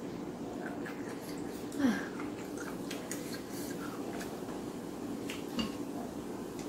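Soft chewing and mouth sounds of someone eating with small clicks, over a steady low background hum. A brief louder sound falls in pitch about two seconds in.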